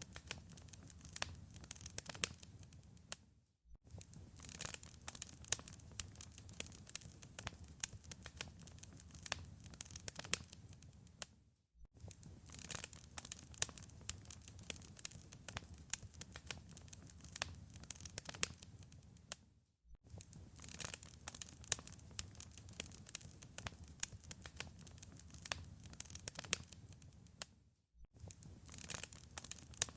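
Wood fire crackling and popping in a fireplace, dense sharp snaps over a low rumble. The sound drops out to near silence for a moment about every eight seconds.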